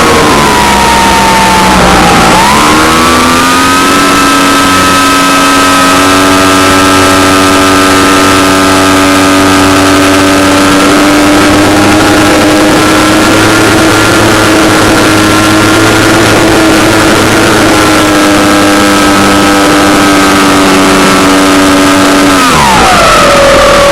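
Model airplane engine running. Its pitch dips and climbs back within the first few seconds, holds steady and high for most of the time, then drops sharply near the end.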